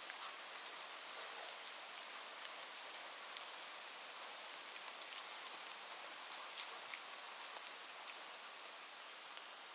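Steady rain falling, a soft even hiss with scattered sharp drop ticks.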